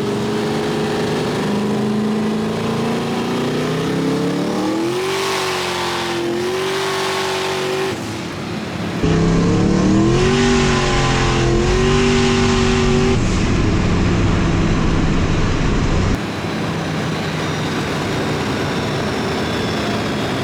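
Pickup truck's engine revving hard under full-throttle acceleration, its pitch climbing and then levelling off high, twice, over steady road and wind noise.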